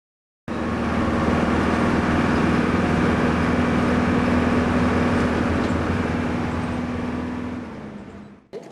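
A motor vehicle running steadily, engine drone with a held low tone over road noise, starting abruptly and fading out near the end.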